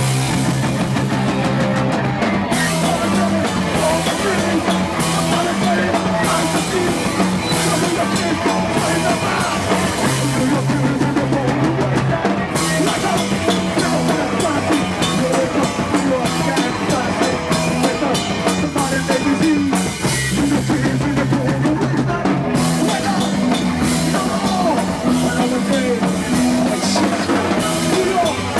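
Live rock band playing loudly: drum kit with crashing cymbals, electric guitar and bass holding steady low notes that change every second or so.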